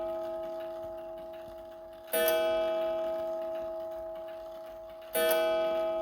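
Seth Thomas beehive mantel clock striking: two ringing strokes about three seconds apart, about two and five seconds in. Each rings out and fades slowly, over the dying ring of the stroke before.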